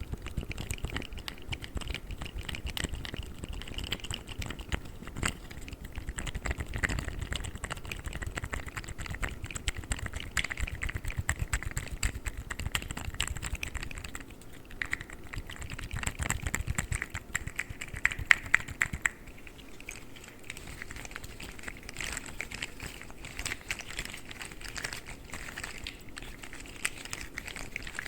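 Articulated plastic fidget slug toys handled and flexed close to the microphone: a dense, continuous run of small rapid clicks and rattles, like typing, somewhat lighter in the last third.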